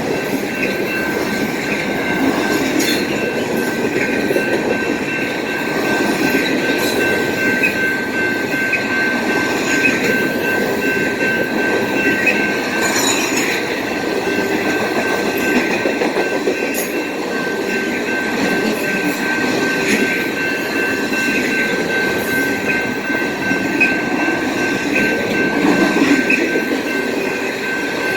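Freight train rolling past at close range, a steady mass of wheel and car noise with faint clicks over the rail joints and a steady high squeal from the wheels.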